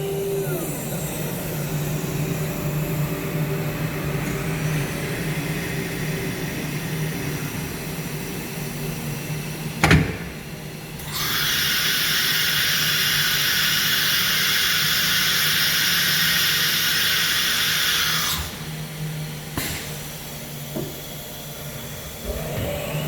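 CNC router spindle winding down to a stop over a steady low machine hum. About ten seconds in comes a sharp burst of air, then a loud steady compressed-air hiss lasting about seven seconds. Near the end the spindle winds back up. This is the sequence of an automatic tool change: the air releases the tool holder and blows the spindle taper clean.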